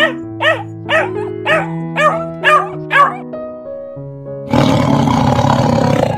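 A husky yipping in a quick series of short calls, each rising then falling in pitch, about two a second. About four and a half seconds in comes a cheetah's loud, harsh, noisy call lasting about a second and a half. Background music plays under both.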